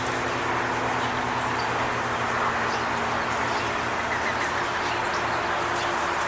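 A steady mechanical hum with a constant rushing background, and a few faint bird chirps over it.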